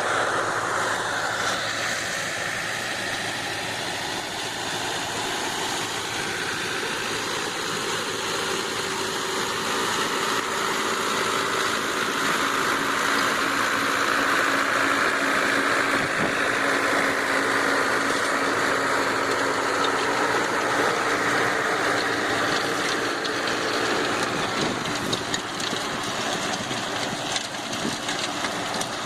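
Sonalika Worldtrac 60 tractor's four-cylinder diesel engine running steadily. It grows somewhat louder through the middle and eases off near the end.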